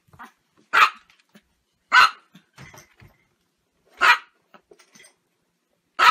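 Chihuahua barking: three sharp yaps a second or two apart, with another starting at the very end.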